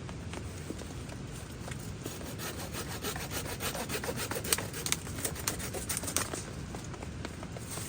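Folding pruning saw (Silky Gomboy) cutting a wooden branch with quick back-and-forth strokes, starting about two seconds in and stopping near the end.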